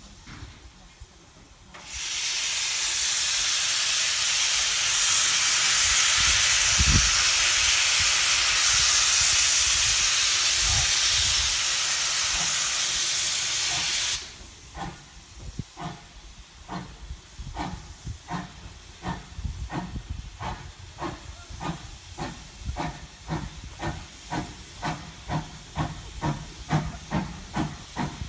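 Steam locomotive: a loud, steady hiss of steam starts about two seconds in and cuts off suddenly about halfway through. The engine's exhaust beats then begin, quickening steadily as it gets under way.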